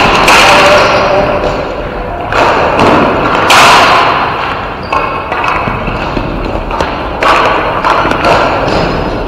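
Ball hockey play: repeated thuds and knocks of the ball, sticks and players against the rink boards.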